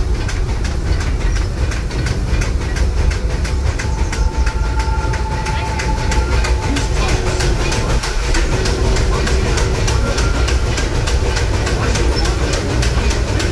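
Narrow-gauge passenger car running behind a steam locomotive, heard from on board: a steady low rumble of wheels on the track with a rapid, even clicking.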